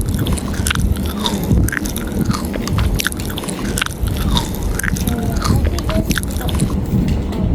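Chewing and biting of fried fast food, with many small wet clicks of the mouth.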